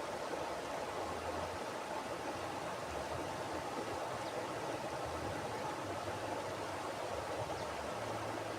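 Mountain river flowing over rocks: a steady rushing of water.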